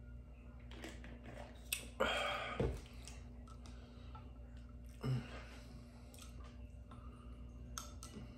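Close-miked chewing and wet mouth clicks of a person eating, with a louder burst about two seconds in and a shorter one about five seconds in.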